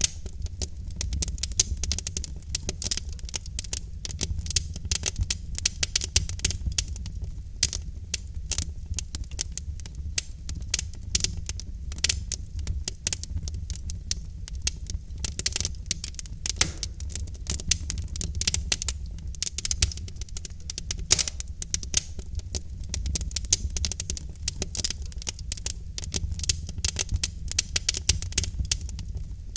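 Wood fire of burning logs in a fireplace crackling: dense, irregular sharp pops and snaps over a low, steady rumble of the flames.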